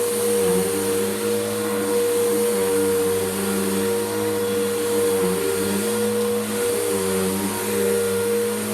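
Bissell PowerGroom Helix Rewind upright vacuum cleaner running steadily: a constant motor whine, with lower tones that shift in pitch now and then, over a rush of airflow.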